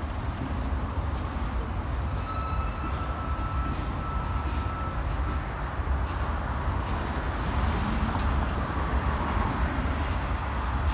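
A freight train rolling past with a steady low rumble. A faint thin high tone sounds for about three seconds, starting about two seconds in.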